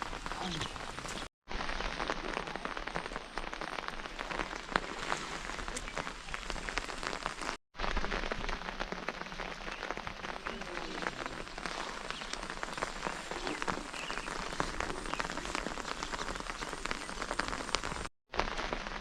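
Steady rain falling, a dense patter of drops, broken by three brief silent gaps.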